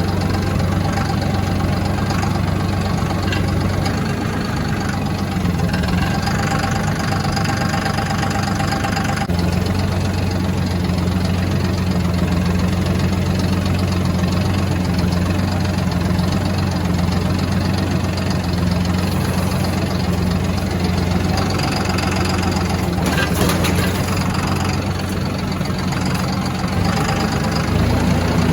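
A vehicle engine running steadily, with its pitch rising slightly near the end.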